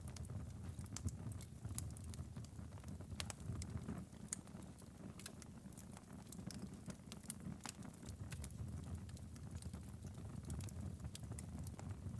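Wood fire in a fireplace crackling: irregular sharp pops and snaps over a low, steady noise from the burning logs.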